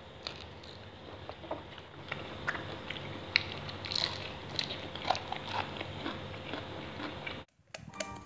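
A man chewing and crunching raw shrimp in fish sauce with fresh vegetables close to the microphone, with small crisp crackles and clicks. The crisp texture comes from shrimp chilled in the fridge. The sound drops out briefly near the end.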